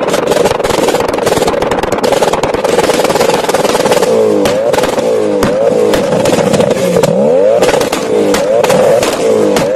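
Performance vehicle engine running hard through a loud exhaust, with rapid crackling pops and bangs. From about four seconds in, the revs repeatedly climb and drop.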